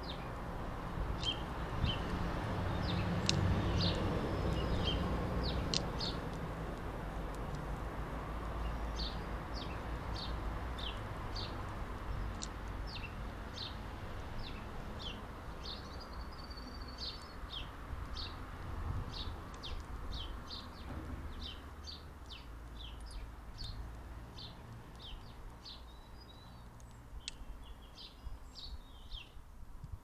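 Small garden birds chirping: short high chirps, about two a second, with a brief warbled phrase about halfway through, over a low background rumble that is loudest in the first few seconds.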